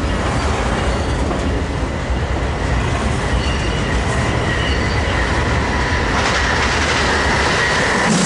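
Amtrak Pacific Surfliner passenger train, a Siemens SC-44 Charger diesel locomotive and cab car, passing close by: a loud steady rumble of wheels on rail with a thin high wheel squeal that grows stronger near the end.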